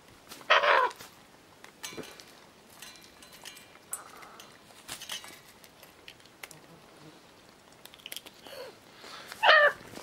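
Scarlet macaw giving two short calls, one just after the start and one near the end, with faint scattered clicks and taps between.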